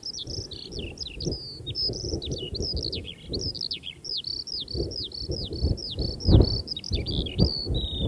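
A songbird singing a long, unbroken, varied song of quick sweeping and falling notes, over a low uneven rumble that swells and fades and is loudest about six seconds in.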